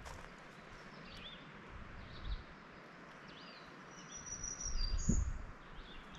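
Small birds chirping and whistling in short calls over a steady outdoor hiss. A low rumble swells about five seconds in.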